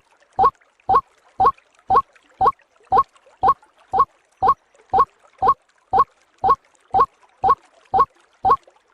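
White-breasted waterhen's 'ruak' call repeated evenly, about two short hooked notes a second, as a looped lure recording played to draw waterhens in.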